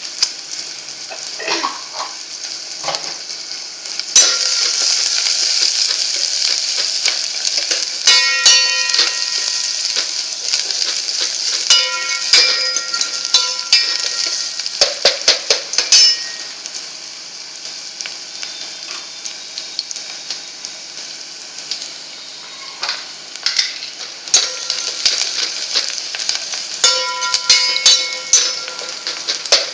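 Tadka of mustard seeds frying in hot oil in a metal pan, sizzling loudly from about four seconds in, with scattered sharp pops. A metal spoon stirs and scrapes the pan in three spells, ringing against the metal.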